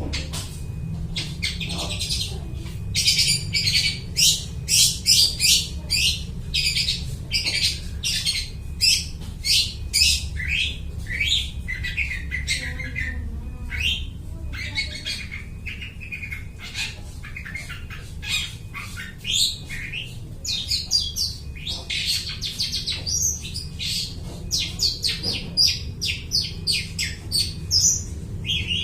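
Long-tailed shrike singing a fast, varied stream of chirps, trills and squawky notes, mimicking the calls of other birds. A steady low hum runs beneath it.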